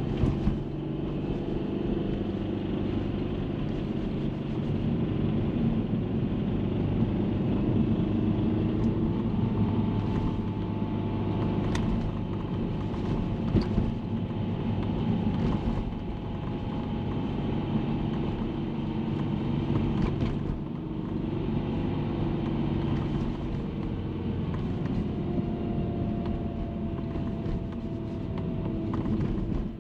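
Subaru EJ20 turbocharged flat-four engine of a BP5 Legacy running steadily, with a few faint clicks over it. The owner is chasing a rattle from the engine bay that comes in at around 3500 rpm; its cause is unknown to him.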